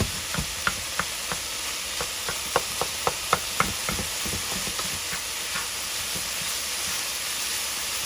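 Ground turkey sizzling in a pan, a steady frying hiss. Over the first four seconds or so it carries a run of sharp ticks, which then stop and leave the even sizzle.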